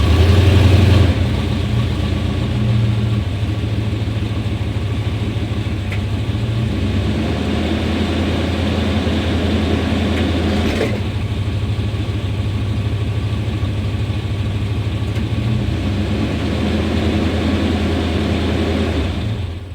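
A 1991 Chevrolet Suburban's 350 (5.7 L) V8 engine running at idle while it is shifted between gears. The engine is slightly louder in the first second, then runs steadily, then cuts off at the very end. It is lacking power with a rough idle and stalling in gear, a fault that was traced to a failing ignition coil.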